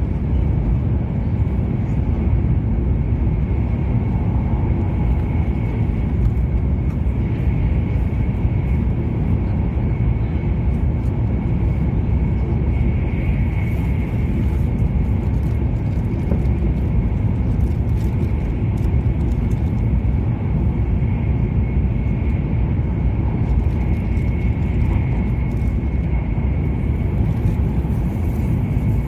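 E7-series Shinkansen running, heard inside the passenger cabin: a steady low rumble with a faint, steady high whine held throughout.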